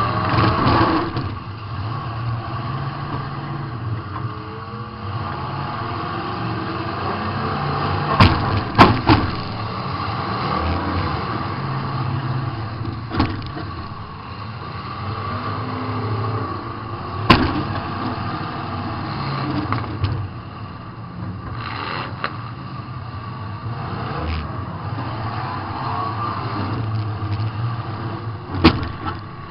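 Demolition derby car's engine running and revving, heard from inside the car, with about six sharp bangs of collisions scattered through; the loudest come around eight and seventeen seconds in.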